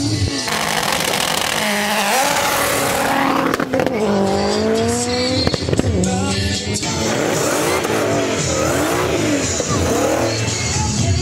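A race car's engine accelerating hard. Its pitch climbs and then drops back several times, as at gear changes, with music playing underneath.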